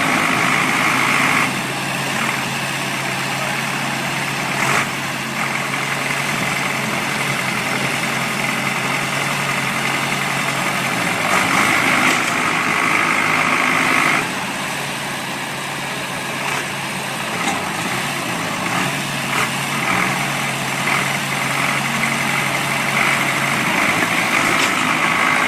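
A heavy vehicle's engine running steadily, getting louder for a few seconds at the start, around the middle and near the end.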